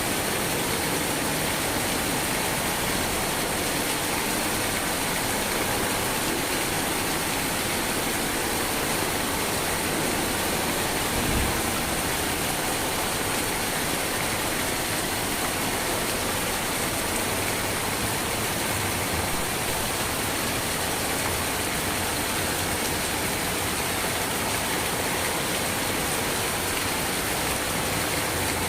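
Steady, even rain with no let-up, with one brief low thump about eleven seconds in.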